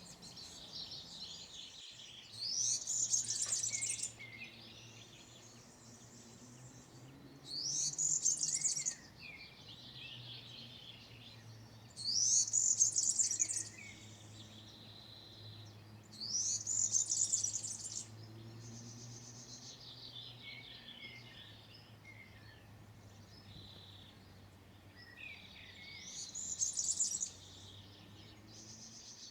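European serin singing: high, fast jingling song phrases of about one and a half to two seconds, five of them a few seconds apart. Softer bird calls fill the gaps, over a faint steady low hum.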